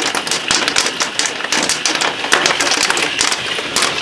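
Hail striking the house and window in a dense, continuous clatter of sharp, irregular ticks over a background hiss.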